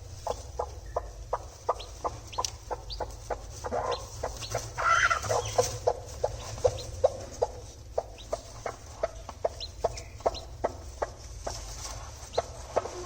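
Hen clucking in a steady, rapid series of short clucks, about three a second, with a longer call about five seconds in.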